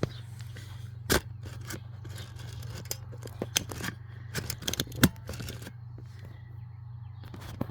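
Scattered clicks, knocks and light clinks of gear being handled and set in place, over a steady low hum.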